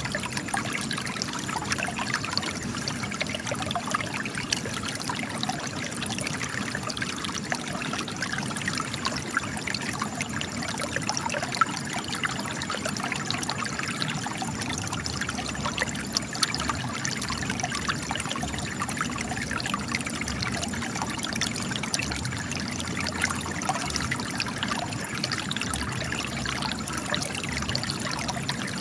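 Spring water trickling and splashing steadily out of cracks in rock, with many small droplet splashes.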